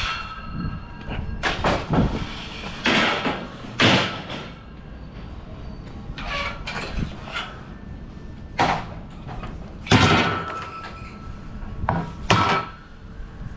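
Irregular metallic clacks and sliding scrapes of a curtainsider trailer's side curtain being opened, its buckles and straps released and the curtain pushed along its rail. The loudest bangs come about 4 s and 10 s in.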